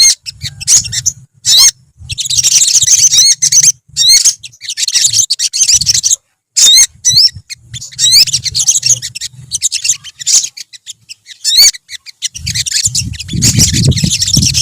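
A group of olive-backed sunbirds chirping and singing together: rapid, high-pitched twittering with quick rising notes, broken by short gaps. A low rumble comes in near the end.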